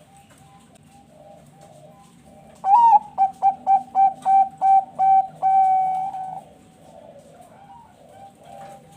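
Zebra dove (perkutut) singing its cooing song: a rising opening note about three seconds in, a run of about eight quick short notes, then a long held note that ends about six seconds in. Other zebra doves coo faintly and repeatedly underneath.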